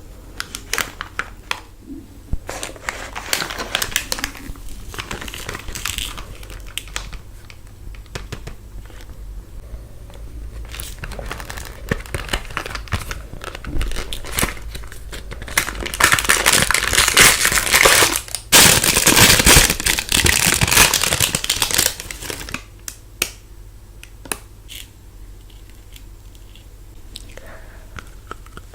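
Plastic ice cream bar wrappers being crinkled and torn open, a crackly rustling that grows loudest for several seconds past the middle.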